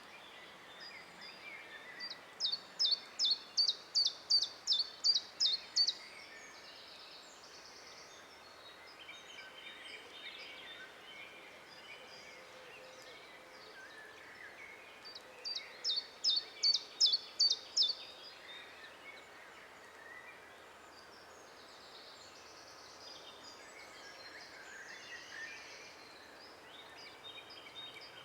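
Forest birdsong: one songbird repeats a loud series of sharp, high notes at about three a second in two bursts a few seconds long, the second near the middle. Other birds sing more faintly throughout over a steady outdoor hiss.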